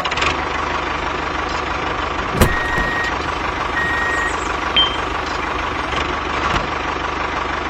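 Mini DIY tractor running steadily, with a sharp click and two short electronic beeps a few seconds in.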